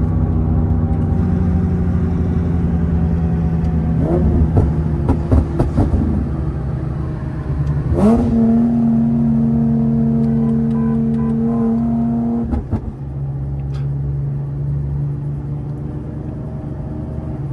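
Infiniti G37's 3.7-litre VQ37 V6 with a loud full-bolt-on exhaust, running under way and heard from inside the car. The note wavers about four to six seconds in, holds a steady drone from about eight seconds, then drops off suddenly a little before thirteen seconds and settles to a lower drone.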